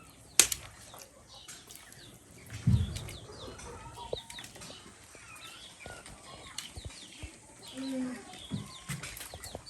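Chickens clucking and chirping in the background, with a sharp knock about half a second in and a dull thump near three seconds.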